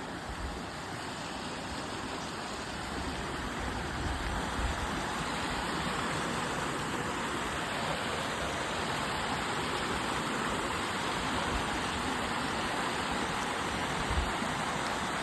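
Creek water rushing steadily, growing a little louder over the first few seconds, with a few dull low thumps.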